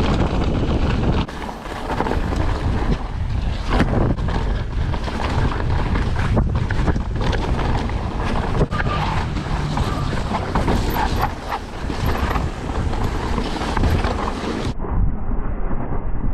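Downhill mountain bike (Trek Session 9.9) descending a wet trail: steady wind rush on a chest-mounted action camera's microphone, with tyre noise and a constant clatter and knocking of the bike over roots and rocks. Near the end the sound turns suddenly muffled, losing its high end.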